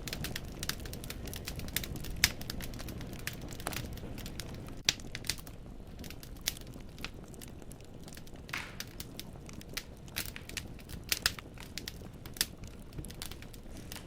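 Wood fire in a fireplace crackling, with irregular sharp pops of burning logs over a low, steady rumble of flames.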